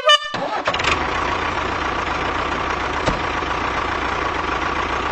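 A vehicle engine starting up and then running steadily at idle.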